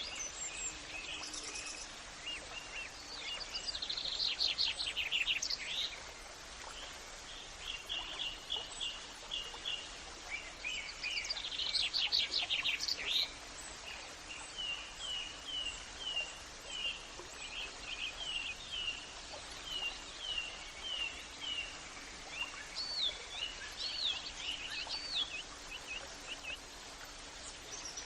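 Songbirds singing over a steady background hiss: two loud rapid trills, then a long run of short repeated chirps and a few upslurred whistles near the end.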